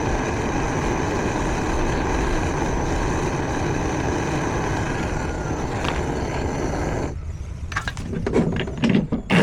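A machine running steadily with a whine, cutting off suddenly about seven seconds in, followed by a few irregular knocks.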